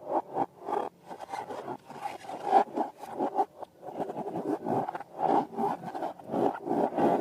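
Quick rubbing and scraping strokes of hands working balloons and slime: a regular run of about five strokes a second at first, then a denser, irregular rubbing.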